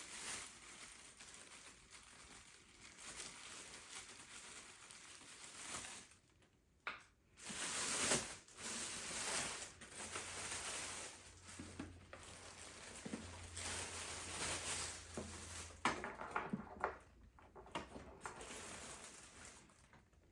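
Rustling and light handling noises, with plastic wrapping crinkling and a few small clicks, as a robot vacuum is turned over and examined.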